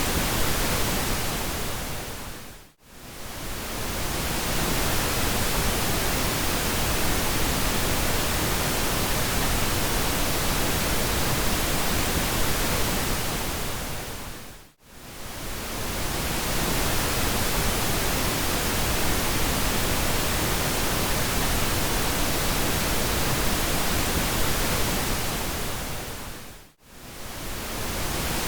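Pink noise: a steady, even hiss weighted toward the low end. Three times, about twelve seconds apart, it fades down almost to silence and straight back up.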